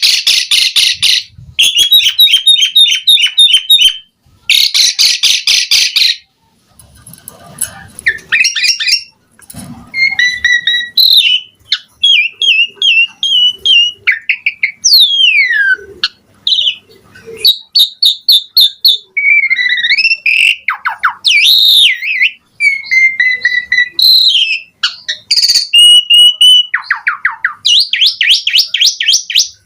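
Asian pied starling singing a long, varied song, full of imitated phrases. It opens with harsh, rapid rattling bursts, runs on through quick repeated chattering notes, trills and whistles gliding up and down, and ends with harsh rattles again.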